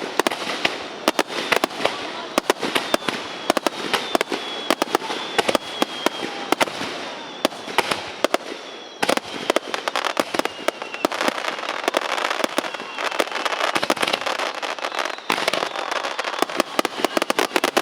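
Aerial fireworks going off in a dense barrage of sharp bangs and rapid crackling, with a faint high whistle falling slowly in pitch.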